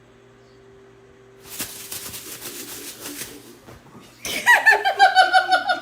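A person laughing hard in rapid, loud bursts, starting about four seconds in. Before it there are about two seconds of scratchy noise.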